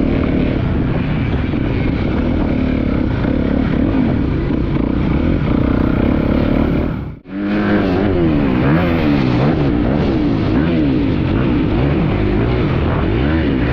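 Yamaha YZ450F four-stroke single-cylinder dirt bike engine being ridden, its pitch rising and falling over and over as the throttle opens and closes through the gears. The sound cuts out suddenly for a moment about seven seconds in, then resumes.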